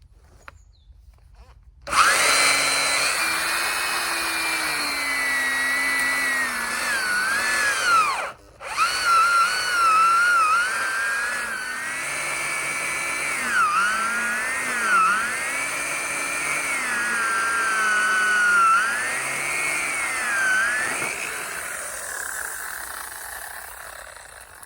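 Chainsaw running, its engine pitch rising and dipping repeatedly as it is revved and loaded. It starts abruptly about two seconds in, cuts out for a moment around eight seconds, and fades away near the end.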